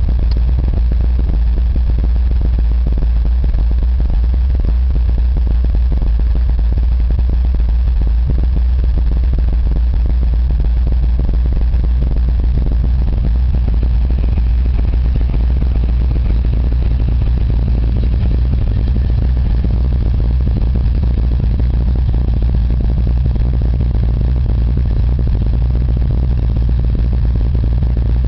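Ford 351 Windsor (5.8 L) V8 in a 1984 Mustang idling steadily, deep and even, with no revving.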